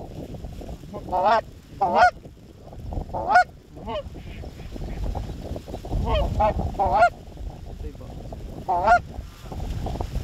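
Geese honking: a series of short honks in small groups every second or two, over low wind rumble on the microphone.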